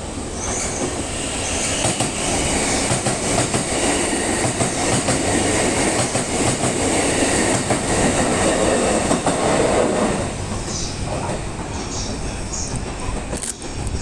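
A JR East E131 series electric multiple unit passing through a station without stopping: wheels running on the rails, swelling about two seconds in, loudest until about ten seconds in, then easing off.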